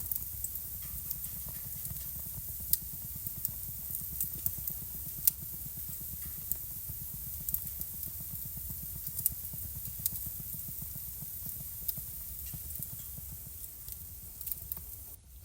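Wood fire burning in a fireplace: irregular sharp crackles and pops over a steady low rumble and hiss of the flames. The sound drops out briefly near the end.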